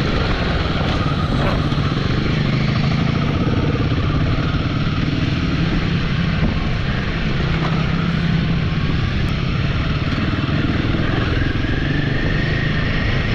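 Royal Enfield motorcycle engine running steadily while riding along, its pitch shifting slightly with the throttle, under a constant rushing noise.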